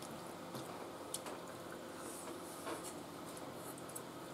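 Faint sounds of people eating: soft chewing and mouth sounds, with a few small scattered clicks.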